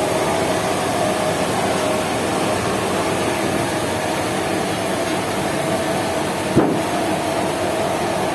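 Sawmill machinery running steadily, with a faint steady hum over the noise and a single sharp knock a little over six seconds in.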